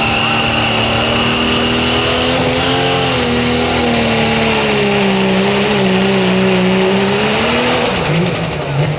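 Turbocharged diesel 4WD pulling truck running hard under load down the track, with a steady high turbo whistle and a second whistle that climbs in pitch about halfway through. The engine note sags a little under the load, then falls off near the end as the engine lets off.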